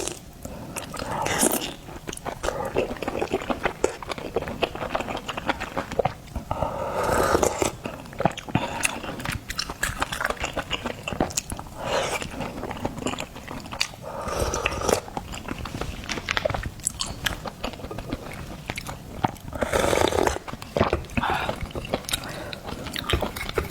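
Close-miked eating of oysters: steady wet chewing and mouth clicks, broken about five times by longer, louder slurping sounds.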